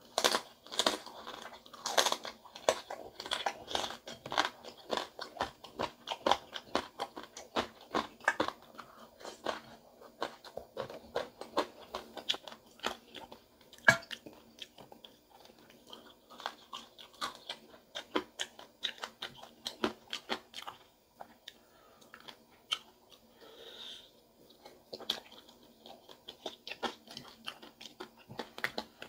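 Close-miked chewing and biting of crispy fried pig tail: dense crunching and crackling bites, with one sharp crack about halfway through, thinning out for a few seconds before the crunching picks up again near the end.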